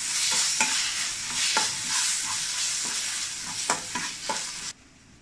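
Grated raw mango frying in sesame oil in a stainless steel kadai, sizzling steadily while a spatula stirs it, with several sharp scrapes and taps of the spatula against the pan. The sizzling cuts off suddenly near the end.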